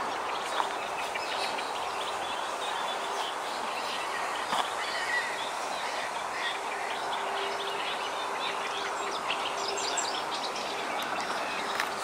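Small birds chirping and calling now and then over a steady hiss of outdoor background noise.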